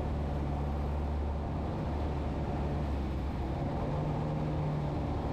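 An engine running steadily under a loud rush of wind, a constant low drone with a fainter steady tone above it.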